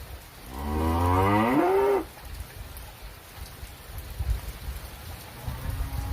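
A cow mooing once, a loud call of about a second and a half whose pitch rises at the end. Rain and rumbling noise follow.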